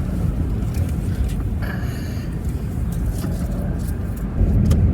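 Car engine and road noise heard from inside the cabin, a steady low rumble that grows louder a little over four seconds in.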